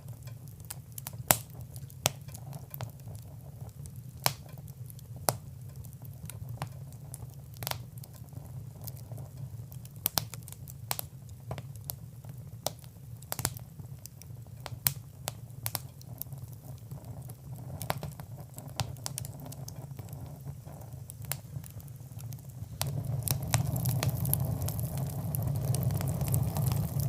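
Wood fire crackling in a fireplace: irregular sharp pops and snaps over a steady low rumble of flame. Near the end the rumble grows louder, with a rushing sound.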